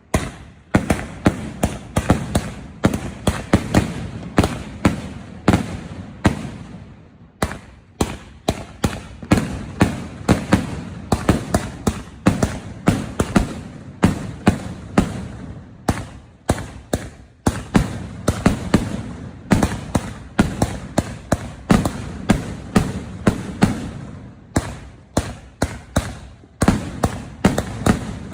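Consumer firework cake of 2-inch shots firing in rapid succession: sharp launch thumps and bursting reports, about two a second, with crackle after the breaks and a brief pause about seven seconds in.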